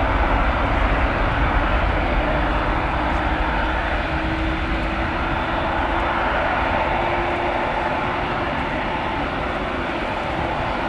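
Twin jet engines of a Boeing 777-200ER airliner on arrival: a steady rushing jet noise with a faint hum underneath, slowly fading.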